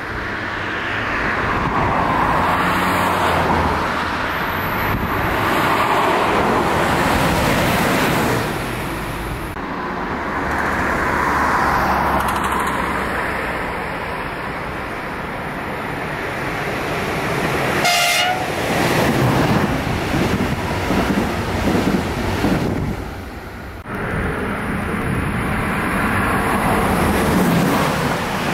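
Electric locomotive-hauled passenger train running along the line, its rushing wheel and rail noise swelling as it approaches and passes beneath. A brief wavering horn tone sounds once, midway.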